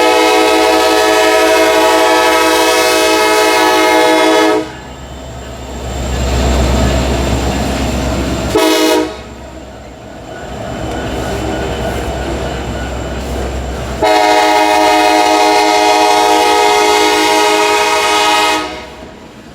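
Air horn of a pair of SD70M-2 diesel locomotives leading an empty ethanol train: a long chord blast that ends about four and a half seconds in, a short toot near nine seconds, then a second long blast from about fourteen seconds. This long-short-long sequence is the end of the grade-crossing signal. Between the blasts the diesel engines and the passing train rumble.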